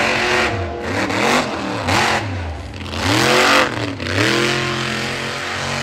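Monster truck engine revving hard, its pitch swinging up and down several times, then held at high revs through the last second and a half.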